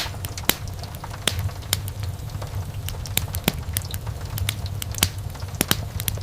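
Wood fire crackling: irregular sharp pops and snaps of burning wood, several a second, over a steady low rumble of the flames.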